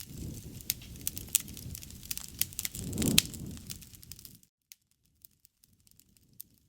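Wood fire crackling, with frequent sharp pops over a low rush of flames that swells about three seconds in. About two-thirds of the way through the sound drops away almost to silence.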